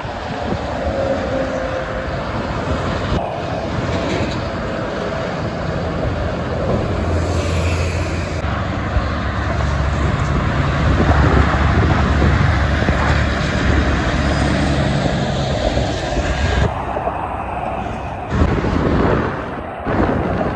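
Expressway traffic noise with heavy trucks going by. A deep engine rumble swells through the middle and eases off about three-quarters of the way through.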